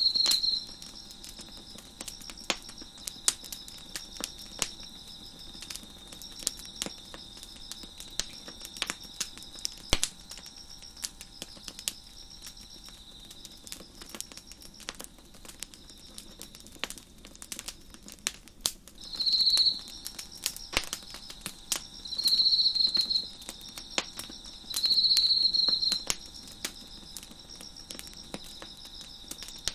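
Wood fire crackling with scattered sharp pops, over crickets chirping steadily in a regular high-pitched rhythm. In the second half a closer cricket gives three loud short trills.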